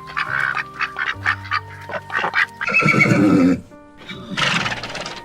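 Animal calls over background music: a quick run of short sharp calls, then a loud drawn-out call with a wavering pitch about three seconds in, and a shorter call near the end.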